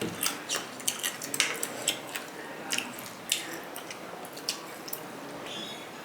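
Close-up eating sounds: crab shell cracking and being picked apart, with wet squishing and chewing, heard as a string of short, sharp crackles and clicks.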